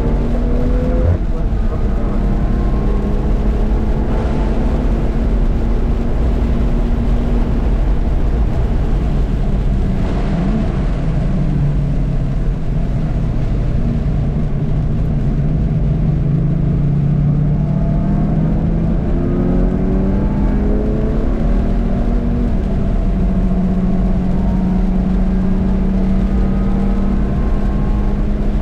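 Car engine heard from inside the cabin on a track lap, its pitch climbing under acceleration and dropping back several times as it goes through the gears, over a constant low rumble.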